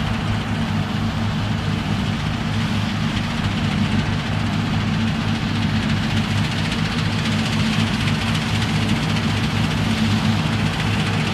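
New Holland CX 6.80 combine harvester running steadily while picking up fescue grass swaths. Its engine makes a low, even drone, with a steady rushing noise above it.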